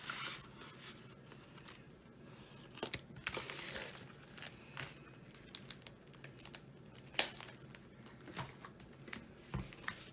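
Paper banknotes and cash envelopes being handled and shuffled, with soft crinkling rustles and scattered light clicks. One sharp click stands out about seven seconds in.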